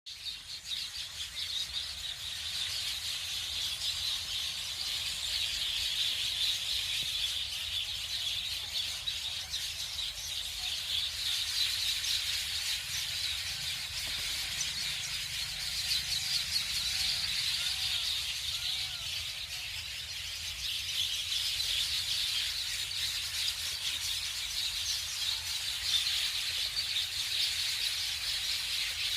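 A dense, continuous chorus of many small birds chirping at once, with a few lower repeated calls about halfway through.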